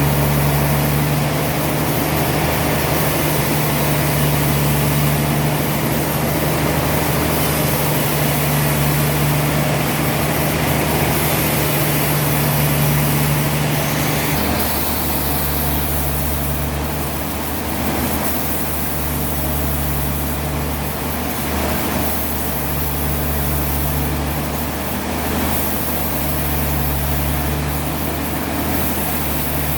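Heavy sawmill machinery running steadily with a deep engine hum over a broad mechanical noise. The hum changes about halfway through and then rises and falls.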